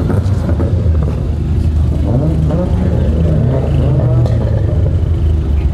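Car engines running loud with a heavy low drone. About two seconds in, the revs rise and fall a few times.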